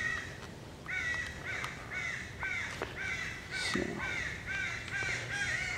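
Crows cawing over and over, about two short caws a second.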